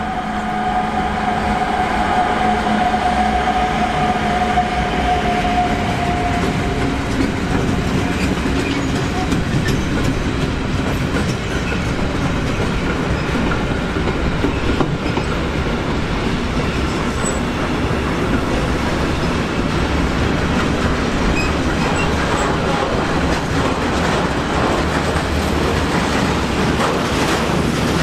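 A train passing close by: a steady loud rolling of steel wheels on the rails, with clickety-clack over the rail joints. A steady high whine is heard over it for the first several seconds and then fades away.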